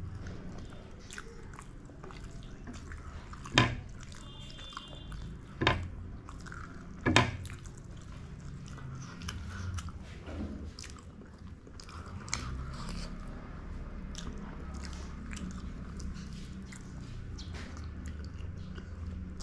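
Mouth sounds of people biting and chewing steamed chicken momos, with wet smacking clicks; three louder sharp smacks come in the first half.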